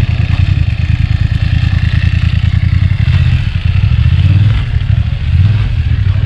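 Motorcycle engine running close by, a low rumble that swells and eases over a few seconds.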